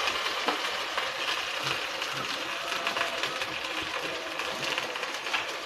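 Masala-coated chicken drumsticks sizzling in a pan, a steady hiss dotted with many small crackles, easing off slightly toward the end.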